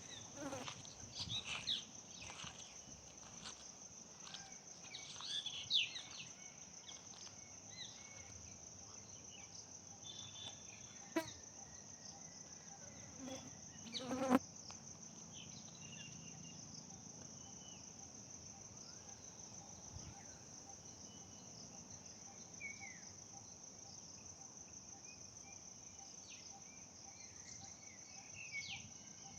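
Steady high-pitched insect drone, with scattered short bird chirps over it, mostly in the first few seconds and again near the end. Two sharp knocks stand out, about 11 and 14 seconds in.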